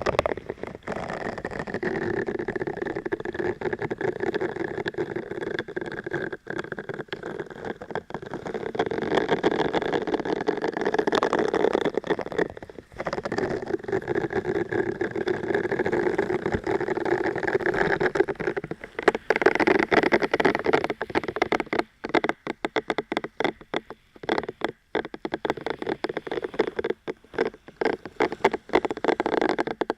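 Close-miked ASMR trigger sounds: steady dense scratching and crackling, breaking up in the second half into quick, irregular taps and clicks.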